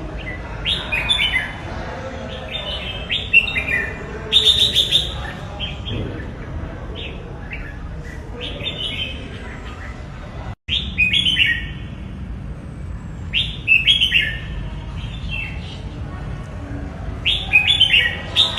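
Red-whiskered bulbul singing: short, quick phrases of descending whistled notes, repeated every second or two. The sound drops out completely for a moment about ten seconds in.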